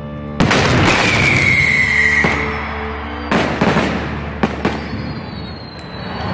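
Ground-launched firework batteries firing. A loud blast comes about half a second in, with crackling and a whistle that slides slightly downward, then several sharp bangs around three and a half to four and a half seconds in.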